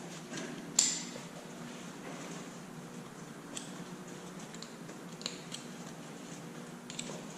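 Protective gear being handled and fastened: one sharp click about a second in, then a few lighter clicks, over a steady low hum.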